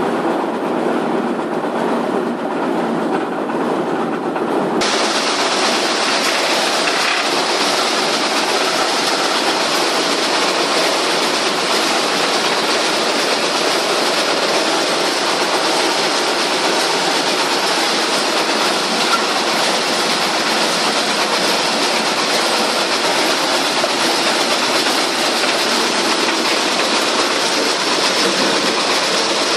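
Wood chipper running loud and steady; about five seconds in the sound turns suddenly brighter and hissier and stays that way.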